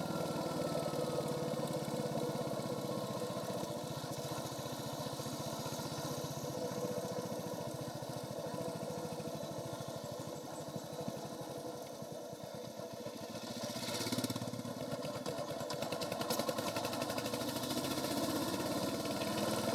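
Royal Enfield Hunter 350's single-cylinder engine running through its stock exhaust on the move, dropping off a little about twelve seconds in and building again shortly after.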